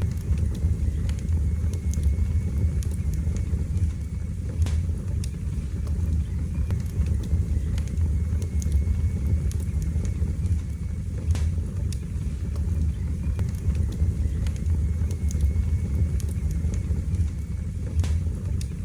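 Wood fire burning in a fireplace: a steady low rumble of flames with sharp crackles and pops every few seconds.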